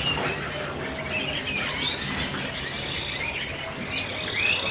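Many caged birds, canaries among them, chirping and trilling over one another, with a low steady hum underneath.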